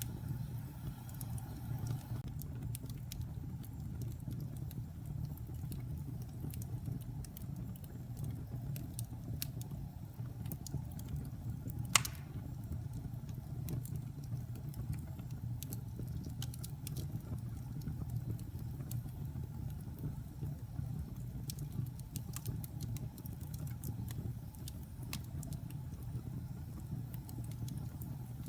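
Wood fire burning in a fireplace: a steady low rumble with scattered small crackles, and one loud pop about twelve seconds in.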